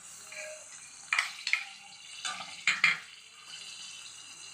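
Spice paste frying in oil in a kadai with a steady sizzle, while a spoon scrapes and knocks against the pan about five times in the middle.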